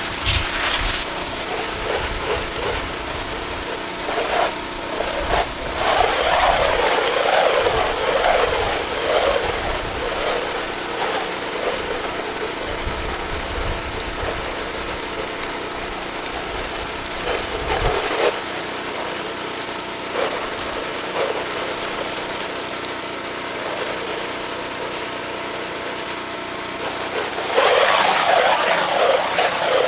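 Pressure washer's engine running steadily while its water spray hisses against vinyl house siding. The spray gets louder near the end.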